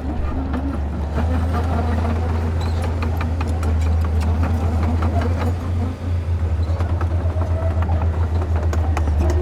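Komatsu D31P bulldozer's diesel engine running under load, a deep drone that turns into an even pulsing after a short dip about six seconds in, with scattered sharp clanks from the tracks and pushed rock.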